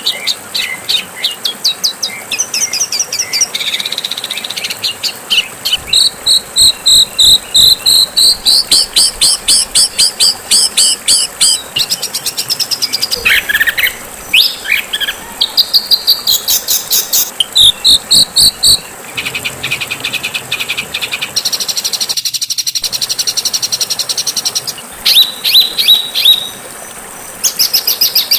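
Songbird singing a loud, rough string of rapidly repeated high notes and trills, switching to a new phrase every second or two, with a short break about halfway through and another near three-quarters through; a bird-song training recording of the harsh, fighting-bird kind.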